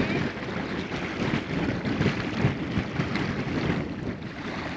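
Wind buffeting the microphone in uneven gusts, over choppy lake water.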